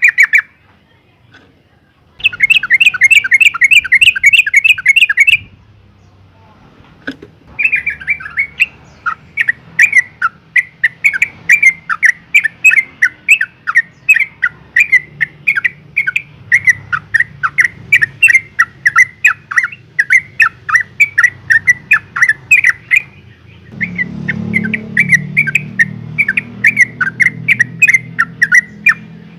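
Yellow-vented bulbul (trucuk) calling in long runs of rapid, chattering short notes, about four a second, with a brief pause partway through. The uploader presents it as a female calling to draw a male into singing.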